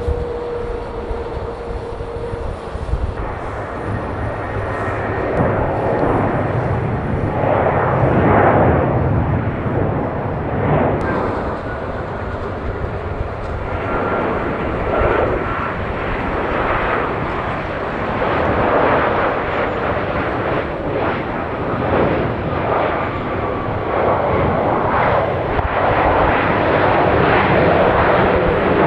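Jet airliner engines at takeoff power: a loud, continuous rumbling roar that builds over the first few seconds and then swells and fades in waves.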